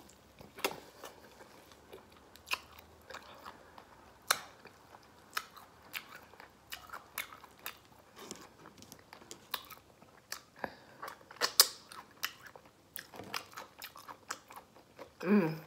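Close-up mouth sounds of someone chewing a mouthful of Italian beef sandwich with crunchy hot peppers: irregular wet smacks and crunches.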